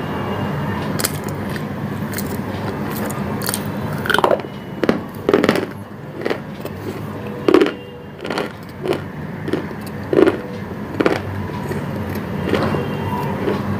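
A person biting and crunching a crumbly white chunk with the mouth closed. About ten sharp crunches come from about four seconds in to about eleven seconds in, over a steady background hum.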